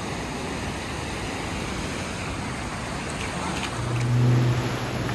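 Surf washing steadily on the beach, with a low steady hum lasting about a second, starting about four seconds in.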